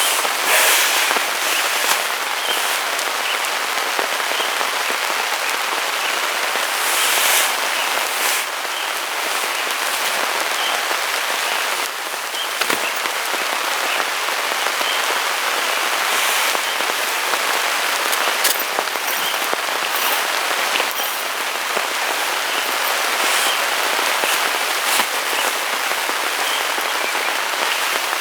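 Heavy rain falling steadily, with frequent sharp taps of individual drops.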